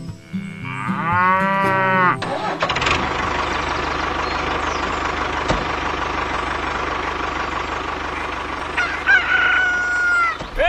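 A pitched animal call that rises and falls for about two seconds, then a steady buzzing hum through most of the rest, with a few short calls near the end.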